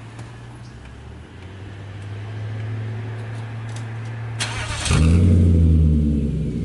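Volvo XC90's Yamaha-built 4.4-litre V8 being started: a brief whirr of the starter, then the engine catches about five seconds in with a loud flare through an exhaust with the rear muffler deleted and only the resonator left. A low hum builds steadily before the start.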